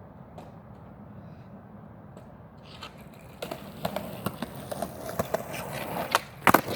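Skateboard wheels rolling over concrete from about three seconds in, with a run of sharp clicks and a loud clack of the board hitting the ground near the end.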